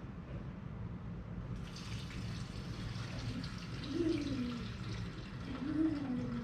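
Gasoline poured from a can into a mini bike's gas tank: a steady splashing pour that starts about a second and a half in, with a few gurgles from the can.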